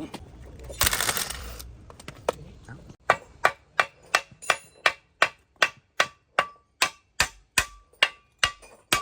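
Hammer striking a metal engine part in a steady series of ringing blows, about two and a half a second, starting about three seconds in. A short hiss comes about a second in.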